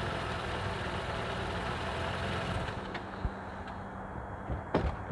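Toyota sedan's engine idling steadily, with a sharp click near the end.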